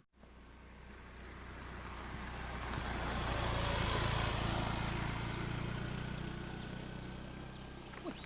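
A motor vehicle passing by: a steady engine hum and road noise that swell to a peak about four seconds in and then fade away slowly.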